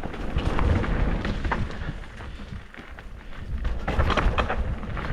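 Wind rumbling on the microphone, with scattered knocks and rattles from riding over a rough dirt trail.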